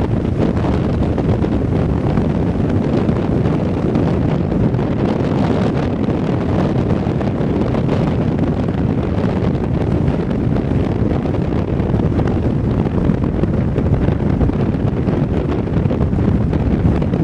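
Strong wind buffeting the microphone: a steady, loud rush of wind noise, heaviest in the low end.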